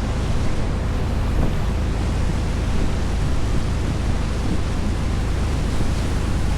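Boat engine running steadily under way, a constant low hum under the hiss of water rushing past the hull and wind.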